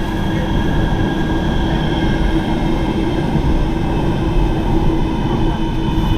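Bombardier M5000 light-rail tram running between stops, heard from inside the passenger saloon: a steady rumble of wheels on rail with a constant low hum and several steady higher whines from the drive.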